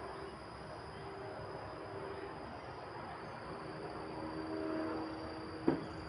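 Wind blowing in a steady rush, with a thin, steady high-pitched ringing over it and a single sharp click near the end.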